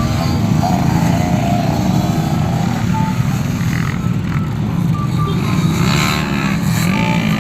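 Loud, steady engine noise from running motor vehicles.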